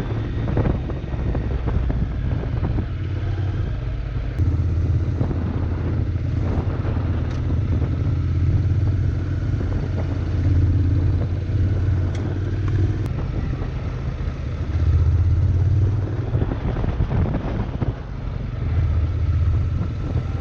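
Honda NC700's parallel-twin engine running while riding, its note shifting up and down with the throttle every few seconds, over wind rushing on the microphone.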